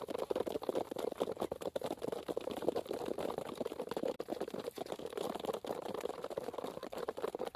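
Chicken feed pattering: a dense, rapid, irregular patter of small taps.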